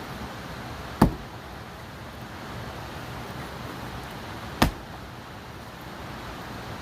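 Two sharp strikes about three and a half seconds apart, typical of an axe splitting pine firewood, over a steady background hiss.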